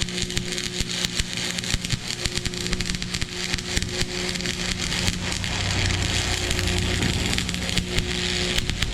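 Electric welding arc crackling steadily with dense rapid sputtering and a low hum beneath, as a weld bead is run back over to melt it in deeper.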